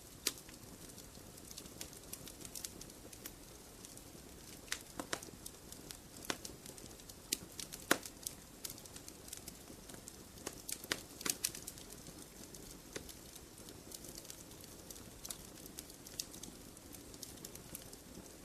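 Wood fire crackling in a fireplace: irregular sharp pops and snaps over a low steady hiss, the loudest pop about eight seconds in.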